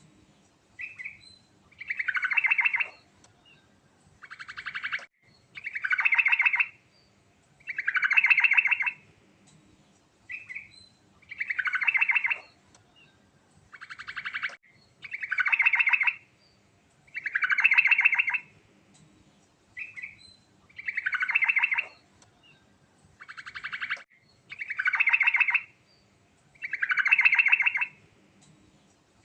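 Yellow-vented bulbul (trucukan) singing without a break: a loud, fast trilled phrase about a second long, repeated roughly every two seconds, with short single notes between some phrases.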